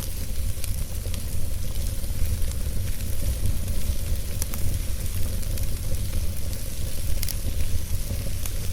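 Logs burning in a fireplace: a steady low rush of flame under a soft hiss, with scattered sharp crackles and pops every second or two.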